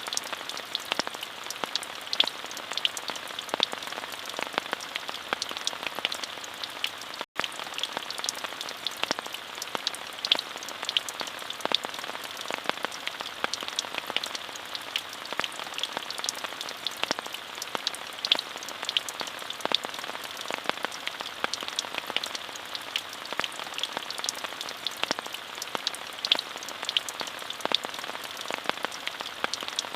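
Steady rain, an even hiss with many separate drops ticking through it. It cuts out for a split second about seven seconds in.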